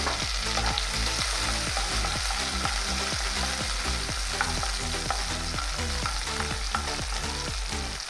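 Green chillies, curry leaves and mustard seeds sizzling in hot ghee in a nonstick kadai, stirred with a wooden spatula. Under it runs a steady low hum with a regular pulse, which cuts off abruptly near the end.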